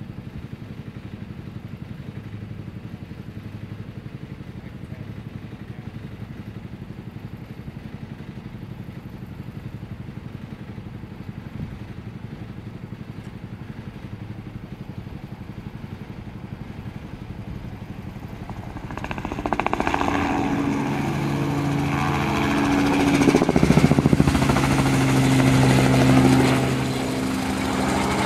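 Crop-dusting helicopter's rotor beating steadily at a distance. About 19 seconds in it grows much louder with a steady engine whine as it comes close, loudest around 24 seconds, then eases a little.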